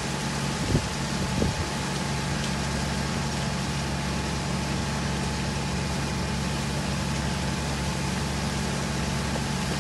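An engine idling steadily with an even hiss over it, and two short knocks about a second in.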